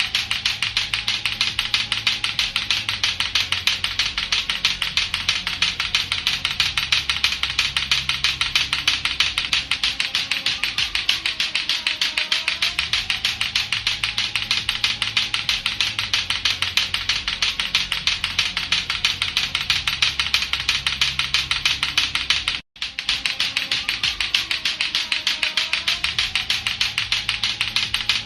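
Lato-lato clacker toy: two hard plastic balls on a string knocking together in a fast, steady run of sharp clacks, with a brief break about 23 seconds in.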